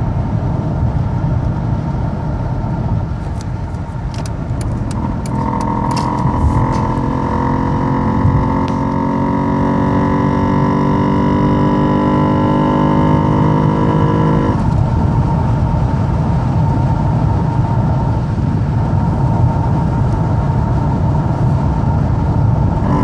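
Mercedes S320L W220 driving, heard from inside the cabin, with steady road and engine noise. From about five seconds in, the engine note rises slowly as the car accelerates, then drops away suddenly about ten seconds later as the throttle is lifted. A few sharp clicks sound near the start of the acceleration, the kind of rattle on acceleration whose cause the owner does not know.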